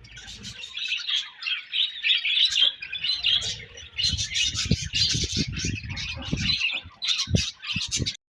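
Budgerigars chirping and warbling rapidly without a break, with a run of low thumps in the middle and one more near the end.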